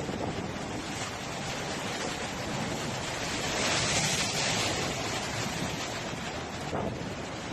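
Wind-driven storm waves breaking, with strong wind buffeting the microphone; a louder surge of crashing water about three and a half to five seconds in.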